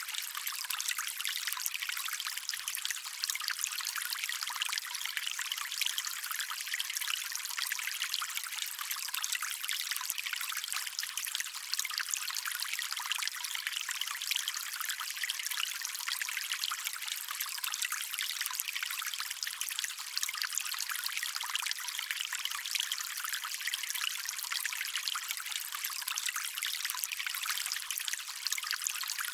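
Small stream running and trickling steadily over stones, a continuous high, bright splashing with no low rumble.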